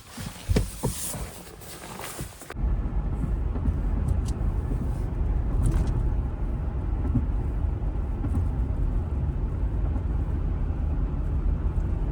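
A few light knocks and handling sounds, then, about two and a half seconds in, a steady low rumble of a car on the move, with road and engine noise heard from inside.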